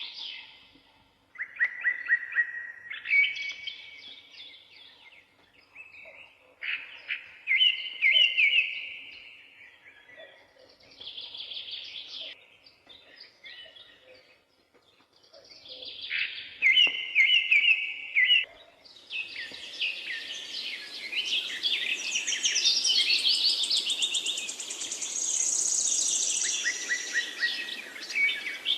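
Songbirds singing in phrases of quick chirps with short pauses between. About two-thirds of the way in, the song becomes denser and higher, as if several birds were singing at once, over a faint hiss.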